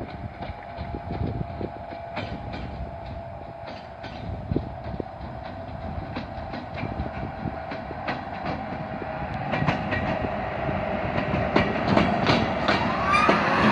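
A train passing on the track, its wheels clicking rhythmically over the rail joints, getting louder over the last few seconds as it comes closer.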